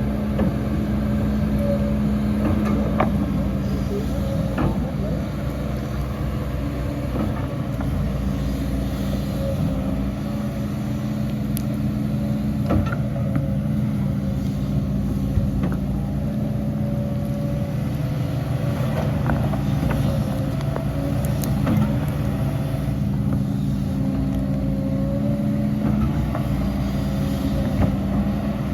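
Diesel engine of earthmoving machinery running steadily under load, with scattered knocks and clatter.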